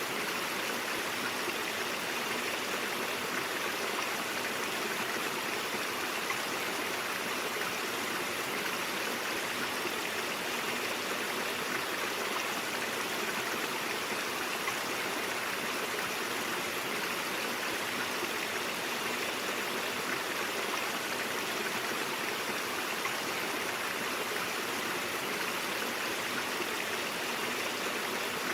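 Stream water flowing steadily: an even, unbroken rushing with no changes.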